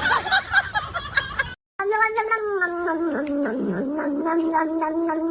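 A cat's long drawn-out yowl, one held cry that sags slightly in pitch, starting after a brief break about two seconds in. Before the break there is a short burst of busy, noisy sound.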